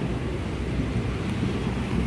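Rain falling in a storm, with wind buffeting the microphone as a steady low rumble.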